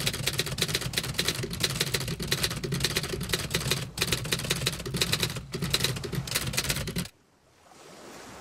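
Typewriter sound effect: keys clacking in rapid succession, with two short pauses, stopping abruptly about seven seconds in.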